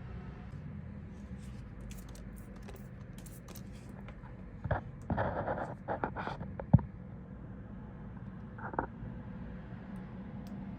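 Short scraping and rustling handling noises with one sharp knock about two-thirds of the way through, over a steady low hum.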